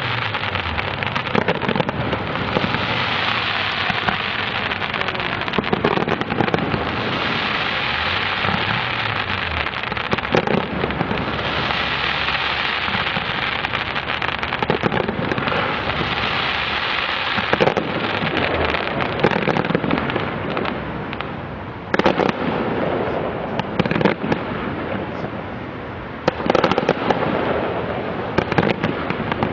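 Fireworks display heard from a distance: many bangs and crackles of bursting shells over a steady hiss. Sharper clusters of bangs come in about two thirds of the way through and again near the end.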